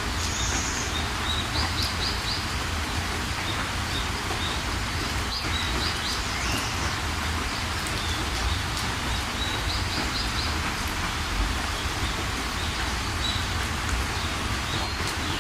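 Steady rain with small birds chirping through it in short quick runs of notes every couple of seconds.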